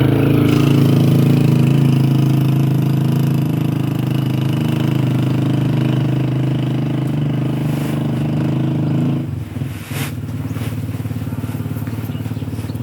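A small engine running steadily, dropping in level about nine seconds in, with a couple of sharp clicks just after.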